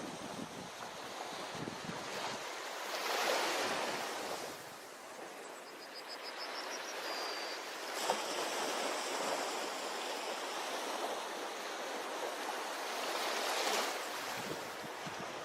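Ocean surf washing onto a beach, swelling as a wave breaks about three seconds in and again near the end. A faint run of high chirps sounds briefly in between.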